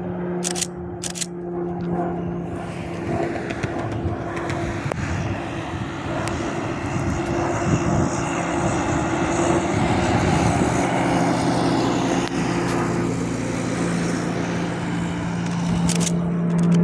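Pilatus PC-21 turboprop trainer flying past on a circuit, its engine and propeller noise building to a peak about two-thirds of the way through and then easing off. A few sharp camera-shutter clicks come near the start and again near the end.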